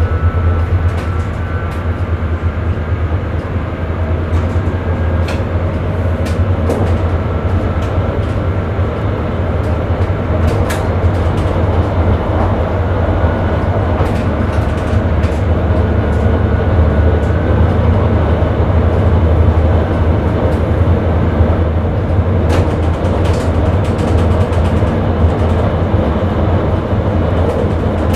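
Electric Sprinter commuter train running at speed, heard from inside the driver's cab: a steady low rumble, with faint whines that slowly change in pitch and occasional sharp clicks.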